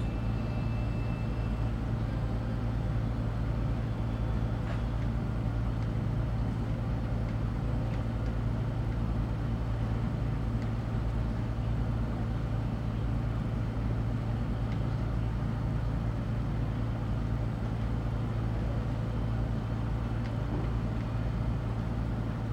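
A steady low engine drone, even throughout with no revving or change in pitch.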